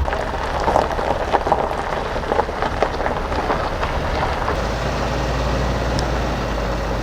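Vehicle on the move, with dense irregular crackling and ticking over road noise for the first few seconds. After that a steadier low running hum takes over.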